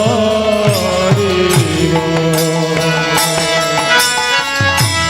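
Bengali devotional kirtan music. A singer holds a note through the first couple of seconds over a steady sustained instrument, and a hand drum plays repeated strokes whose low notes bend downward in pitch.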